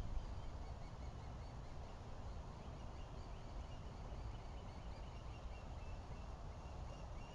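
Faint outdoor birdsong: many short chirps repeated over and over, over a low, steady rumble.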